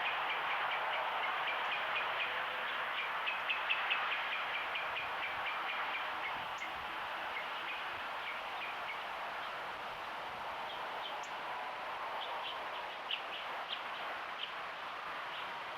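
Small birds chirping, many short chirps packed close together for the first few seconds and then scattered, over a steady hiss.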